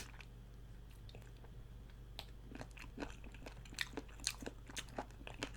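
Faint close-miked chewing of chicken feet, with small wet mouth clicks and crunches as the meat is worked off the bones. The clicks start about two seconds in and come at irregular intervals.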